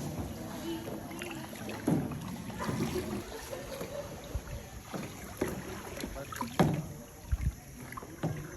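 Kayak paddles dipping into and splashing through water in irregular strokes, a few of them louder splashes, the loudest about two-thirds of the way through.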